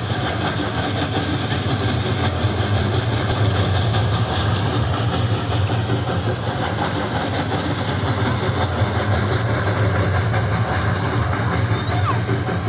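Miniature train running on its track, a steady rumble.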